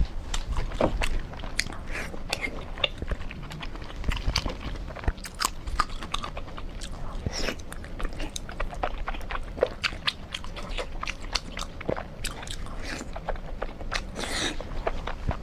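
Close-up eating sounds of a person chewing braised pork: wet chewing, biting and lip smacks, irregular and continuous.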